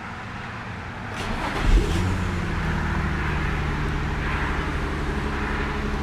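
2003 Infiniti G35 Coupe's 3.5-litre V6 starting up: a click, a short crank, then a loud flare as it catches about two seconds in, settling into a steady idle.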